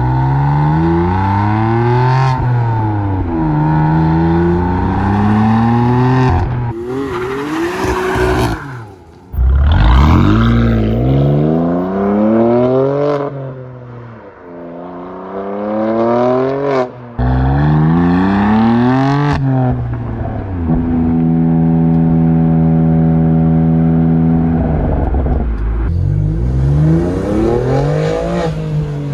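BMW M2 CS's S55 twin-turbo straight-six running through a Dinan X-pipe exhaust, pulling hard through repeated upshifts: the note climbs, drops at each shift and climbs again. For a few seconds after the middle it holds a steady pitch before it revs again.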